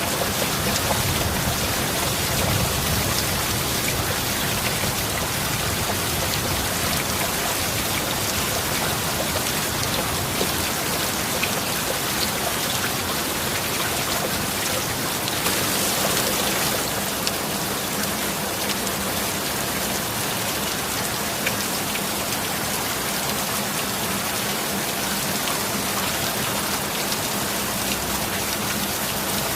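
Steady heavy rain falling, an even continuous hiss of drops, briefly swelling a little about halfway through.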